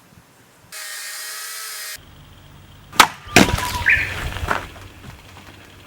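A short steady hiss, then a sharp click and a loud wooden knock about three seconds in, followed by smaller knocks and cracks as of firewood being handled.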